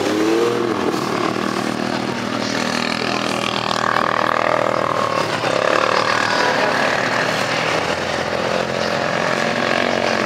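Off-road 4x4 engines running on a dirt course, one revving up and dropping back just after the start, then the engine note wavering as the vehicles work through the ruts.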